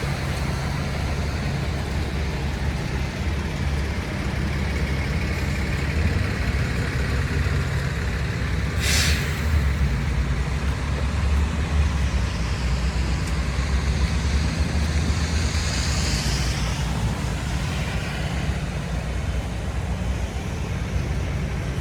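Downtown street traffic: a steady low engine rumble from buses, trucks and cars, with a short air-brake hiss about nine seconds in and a vehicle swelling past and fading a few seconds later.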